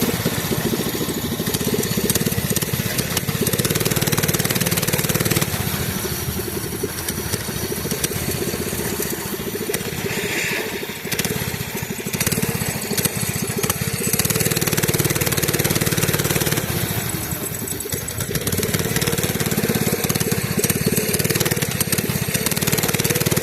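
Small mini bike engine running while riding, its sound swelling louder and dropping back several times as the bike speeds up and slows.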